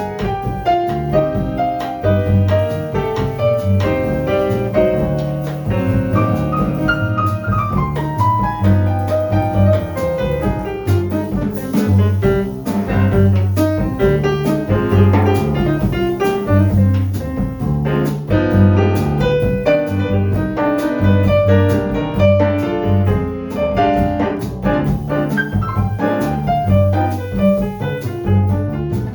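Small jazz group playing: piano chords and melody over a plucked upright bass line, with light drum kit and cymbals behind.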